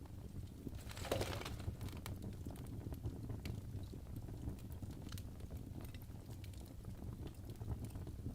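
Wood fire burning in a fireplace: a low steady rumble of flame with scattered crackles and pops, and a louder hissing crackle about a second in.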